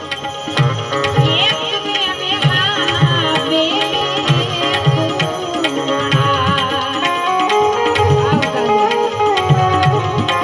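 Instrumental passage of a Gujarati santvani bhajan: tabla keeping a steady rhythm under a wavering melody line, with no clear singing.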